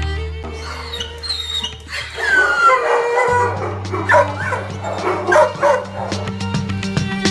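Dogs barking and yelping in short bursts over background music, from about a second in until near the end.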